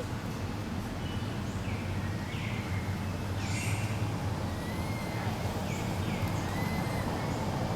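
Baby monkey giving a series of short, high-pitched squeaks that fall in pitch, about eight in all, the loudest about halfway through, over a steady low outdoor rumble.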